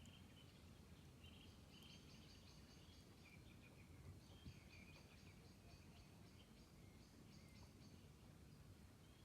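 Faint songbird song: two rapid, high, chattering trills, the second one longer, over a steady low background rumble.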